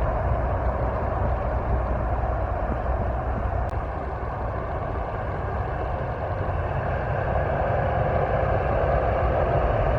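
Steady rumble of road vehicle noise, easing a little midway and building again toward the end.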